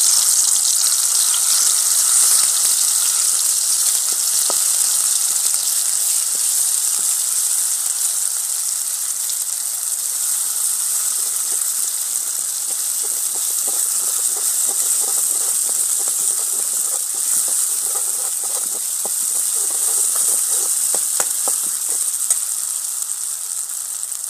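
Onion-garlic spice paste frying in hot oil in a kadhai: a loud, steady sizzle that eases off a little over time. In the second half the steel ladle scrapes and taps against the pan as the masala is stirred.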